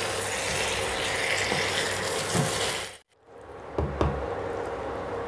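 Vegetable curry sizzling in a non-stick kadai on a high flame while a wooden spatula stirs and scrapes through it. The sound cuts out briefly about three seconds in, then the frying and stirring come back more quietly with a few low knocks.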